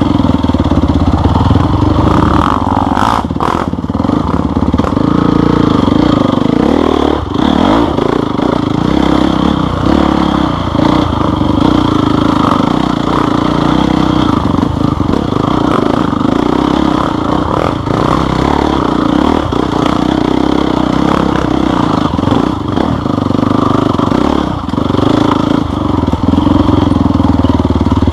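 Off-road motorcycle engine running steadily under varying throttle, with knocks and rattles from the bike over rough trail.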